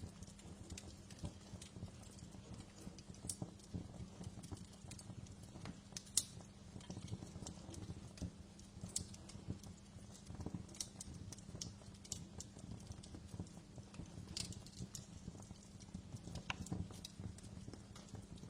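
Wood fire crackling and popping in a fireplace: irregular sharp snaps over a low, steady rumble of the flames, with one louder pop about six seconds in.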